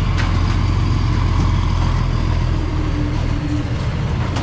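Large truck engine running steadily with a low rumble.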